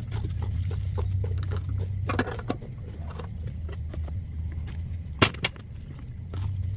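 A low, steady motor hum with scattered knocks and clicks over it, and one sharp loud clack about five seconds in.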